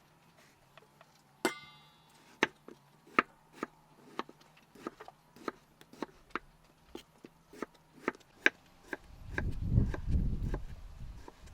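Steady chopping with a blade, a sharp stroke about twice a second. A low rumble comes in near the end.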